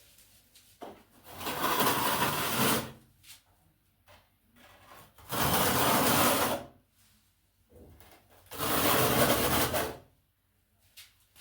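Three long scraping strokes of a trowel spreading tile adhesive, each lasting about a second and a half with short pauses between.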